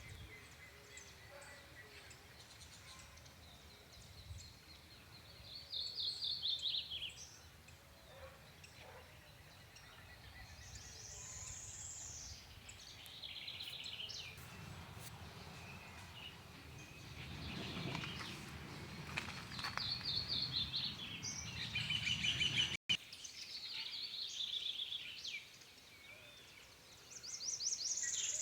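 Small birds singing outdoors: short, high, rapidly trilled phrases every few seconds. A low rumble sits under the song in the middle stretch.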